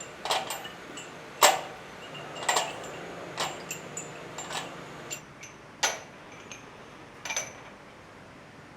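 Metal parts knocking together: about a dozen sharp metallic clinks at irregular intervals, each with a short ring. The loudest comes about a second and a half in, and they stop shortly before the end.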